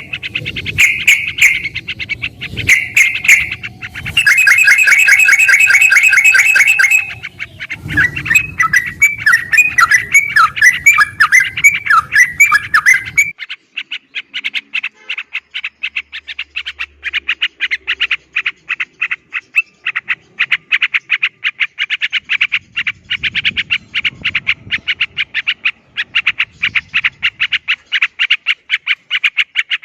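Yellow-vented bulbul (terucuk) singing in long, rapid chattering runs of chirps, with a loud dense trill a few seconds in. About 13 seconds in the recording switches to a quieter, steady string of quick repeated notes.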